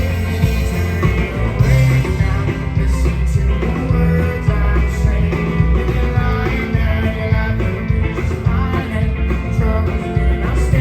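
Live rock band playing an instrumental passage: electric guitars over a steady bass and drum groove.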